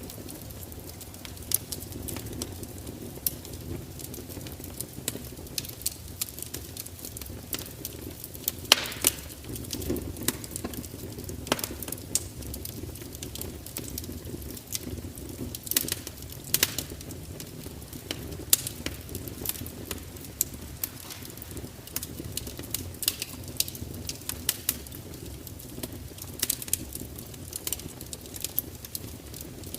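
Fire crackling: irregular sharp pops and snaps, a few of them louder, over a low steady rumble of burning.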